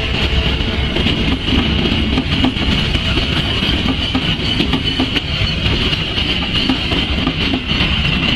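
Passenger coaches of the KA Bengawan train rolling past close by: a loud, steady rumble of steel wheels on rail with a constant high hiss and faint scattered clicks.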